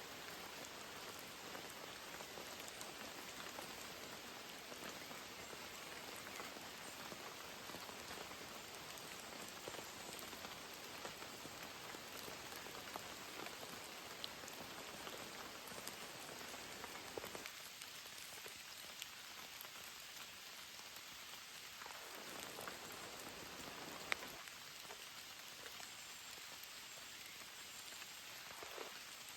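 Steady rain falling, with scattered individual drops ticking through the hiss and one sharper tap about three quarters of the way through.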